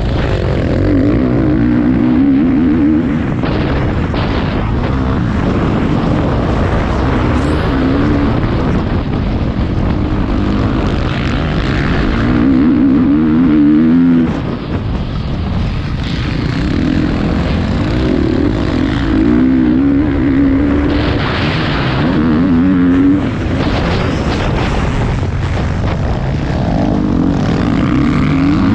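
Motocross bike engine revving up and dropping off over and over as it is ridden round the track, heard from a helmet-mounted camera. There are short throttle lifts about halfway through and again a little later.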